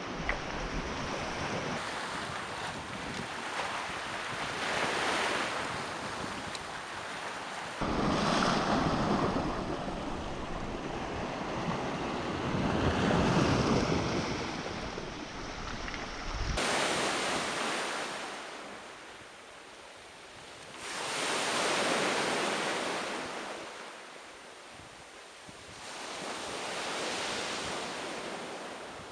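Sea waves breaking and washing in, the surf swelling and fading every few seconds, with wind on the microphone.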